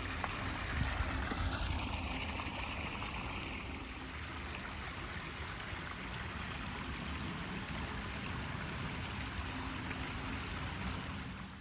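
Steady rush of running water from a stream, going on evenly and cutting off abruptly near the end.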